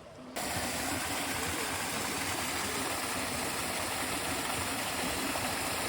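Water rushing steadily down a small stepped cascade, a full, even rush that cuts in abruptly about a third of a second in.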